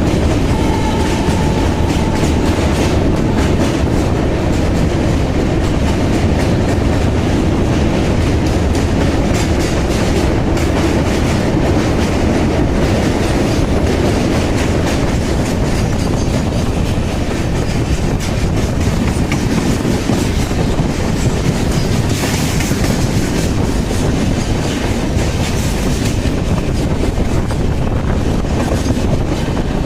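Passenger train running at speed, heard from on board: a steady, loud rumble with frequent clicks of the wheels over rail joints.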